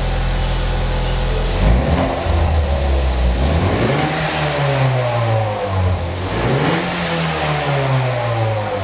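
Ford Mustang 2.3-litre turbocharged four-cylinder engine through an MYS electronically valved aftermarket exhaust. It idles steadily, then is revved twice, the pitch climbing and sinking slowly back each time.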